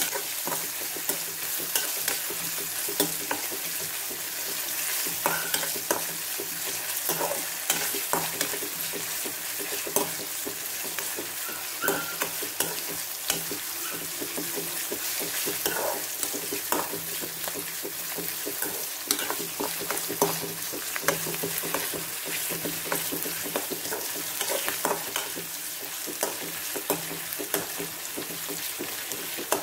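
Onion, curry leaves, ginger and garlic sizzling in hot oil in a metal pan while being stirred, with a steady hiss and frequent sharp clicks and taps of the spatula against the pan.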